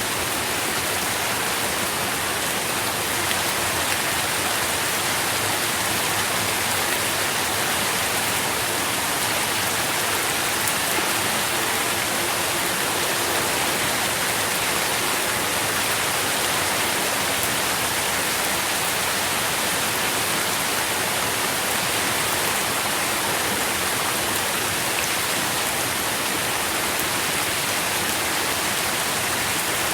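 Steady rain falling, a constant even hiss with fine scattered drop patter.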